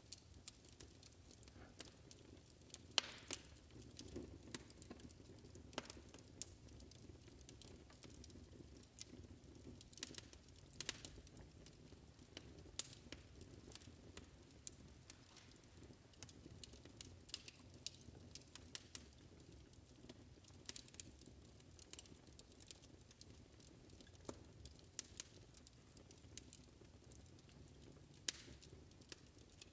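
Faint fireplace crackling: irregular sharp pops and snaps over a low steady rumble.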